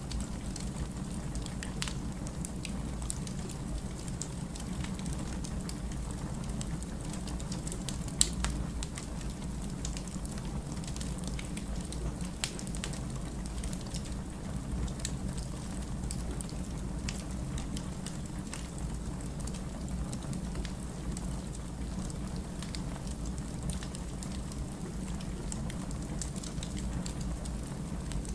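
Firewood burning: a steady low rumble with scattered crackles and pops, one sharper pop about eight seconds in.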